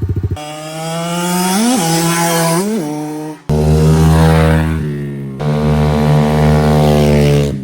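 Dirt bike engine running at high revs, with two quick throttle blips early on. The sound comes in several short sections that cut in and out abruptly.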